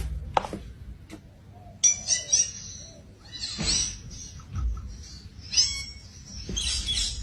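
Pet parrot calling in four short bouts of high, bending chirps and squawks, with a couple of light clicks in the first second.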